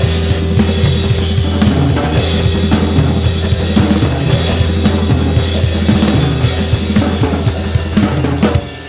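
Yamaha acoustic drum kit played fast and busy, with kick, snare and cymbals, along with a rock track carrying a sustained low bass. The music drops away just before the end.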